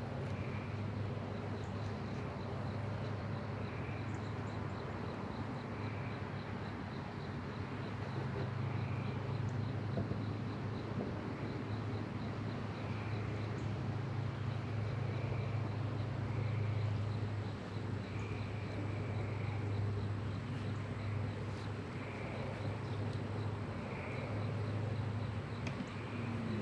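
Steady low hum of honeybees working around an open hive, with short chirps repeating every second or two above it.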